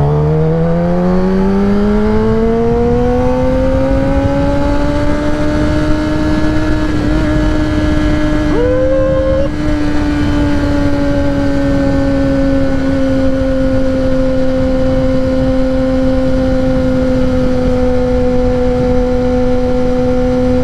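Kawasaki ZX-10R's inline-four engine through a Graves race exhaust, its pitch rising as the bike pulls in one gear for the first five seconds or so, then holding steady at a cruise, with wind rushing over the microphone. A brief higher tone rises and holds for about a second near the middle.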